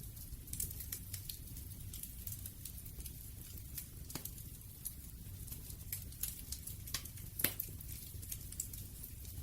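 Wood fire crackling, with scattered sharp pops over a low steady rumble and one louder pop near the end.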